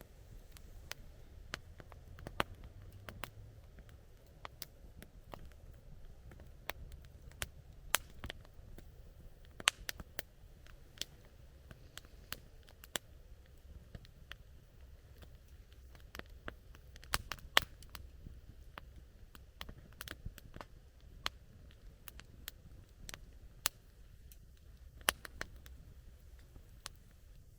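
Wood campfire crackling: irregular sharp pops and snaps, a few much louder than the rest, over a low steady rumble.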